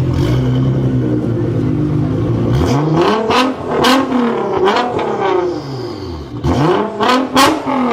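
Nissan R35 GT-R's twin-turbo V6 through a straight-piped exhaust, idling steadily and then revved hard several times from about two and a half seconds in, the pitch sweeping up and falling back with each blip.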